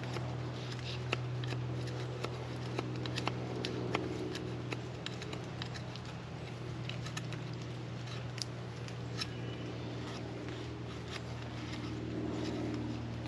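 Small campfire of tulip bark and cedar tinder crackling and popping in irregular sharp clicks, over a steady low hum.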